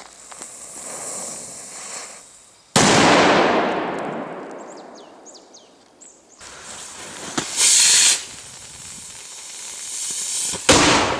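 Fireworks going off: hissing, then a sharp loud bang about three seconds in that fades away slowly. A short burst of hiss comes around eight seconds, and a second loud bang near the end.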